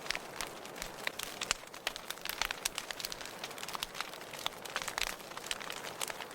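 Wood fire burning in a fireplace, crackling with many small irregular pops and snaps over a soft steady hiss.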